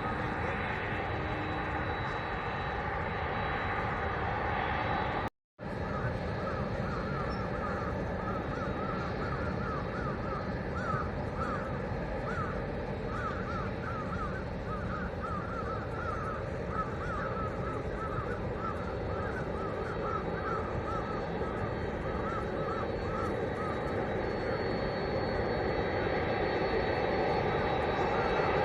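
Crows cawing again and again over a steady rumble of jet aircraft. Near the end the rumble and a high whine grow louder as an aircraft nears. The sound cuts out briefly about five seconds in.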